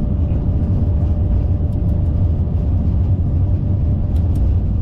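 Steady low rumble of the Airbus A380 flight deck on the ground after landing, with a faint steady tone above it.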